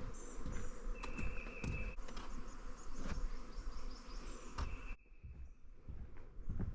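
Footsteps along a trail, about two a second, with a high, even buzzing trill about a second long that comes back several times. The background hush drops off suddenly about five seconds in.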